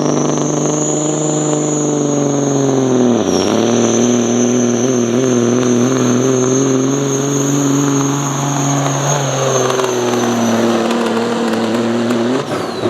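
A competition pulling vehicle's engine at full throttle under load, with a high whine riding above it. About three seconds in, the engine speed dips sharply and recovers; it sags again later and drops away near the end.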